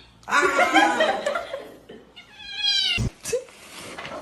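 A domestic cat meowing: a rough, noisy call about half a second in, then a pitched meow that falls in pitch about two and a half seconds in, cut off by a sharp click.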